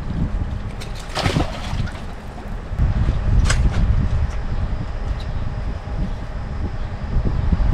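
Boat running on the water with wind buffeting the microphone as a heavy low rumble and a faint steady motor hum underneath. Two short sharp noises cut through, about a second in and again at three and a half seconds.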